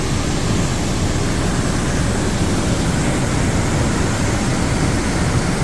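Rain-swollen waterfall at its head: a loud, steady rush of falling water.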